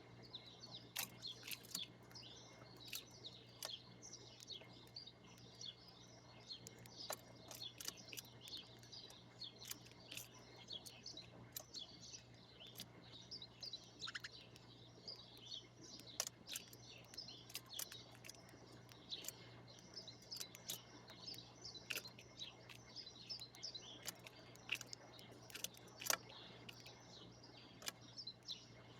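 A group of small birds chirping over one another in a continuous chatter, with frequent sharp clicks mixed in.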